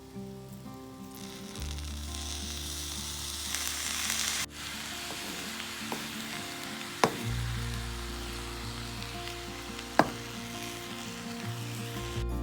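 Shrimp fried rice sizzling and frying in an electric frying pan as it is stirred, the sizzle building about a second and a half in. Two sharp clinks, about seven and ten seconds in, are likely the utensil striking the pan.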